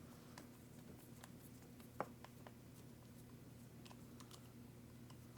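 Faint scattered clicks and taps of small RC car parts and screws being handled, with one sharper click about two seconds in, over a low steady hum.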